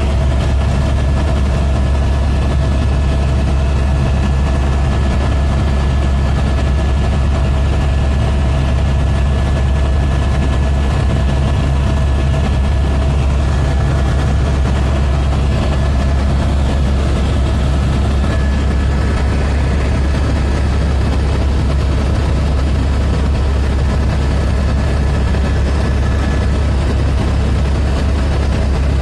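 Helicopter running steadily: a constant loud, low drone with a few steady higher tones on top.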